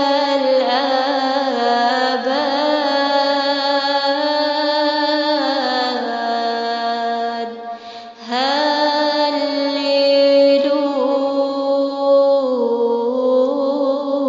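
A woman's solo voice singing a long melismatic phrase of an Arabic psalm chant, holding notes that bend and slide between pitches, with a brief breath about eight seconds in.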